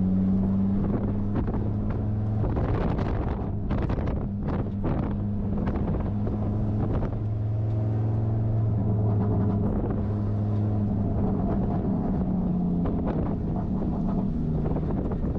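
Audi RS3's engine running at a steady, moderate pitch as the car is driven on a warm-up lap, with road noise and some wind on the microphone.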